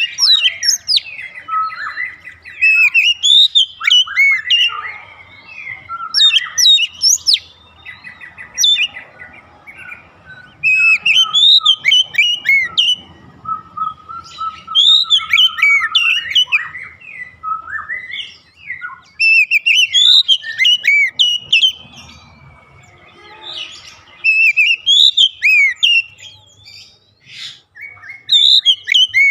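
Oriental magpie-robin (kacer) singing: bursts of rich, varied whistled phrases about every four seconds, with softer twittering in between.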